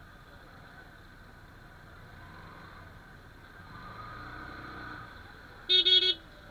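Motorcycle engine and traffic hum while riding, swelling briefly as something passes. Near the end, a vehicle horn sounds twice in quick succession, much louder than the rest.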